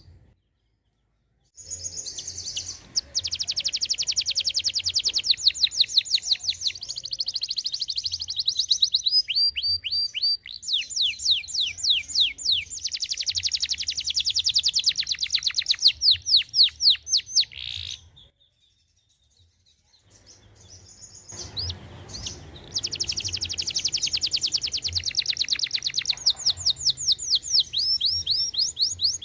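Domestic canary singing in full song: long trilled phrases of very fast repeated high notes, some sweeping down in pitch, broken by two short pauses, one right at the start and one about two-thirds of the way through.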